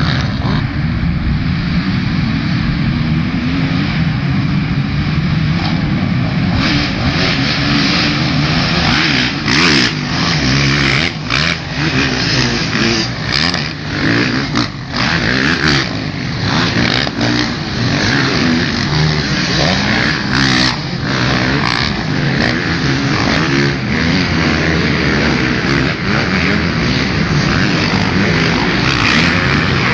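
Motocross bike engine running hard, its pitch rising and falling with the throttle and gear changes, broken now and then by sharp knocks and short dips in level.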